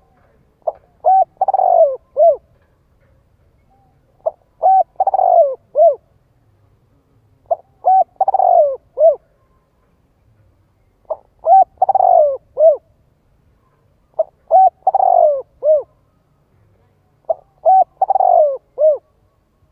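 Spotted dove cooing its song six times, about every three seconds. Each phrase is a few short coos, one longer falling coo and a final short coo.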